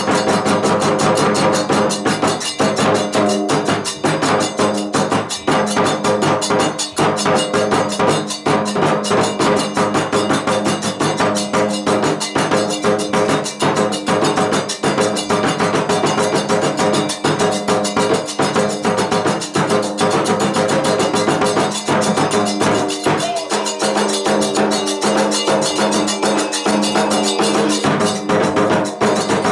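Kagura accompaniment playing fast and loud: rapid drum strokes and clashing small hand cymbals (tebyōshi) over steady held flute tones.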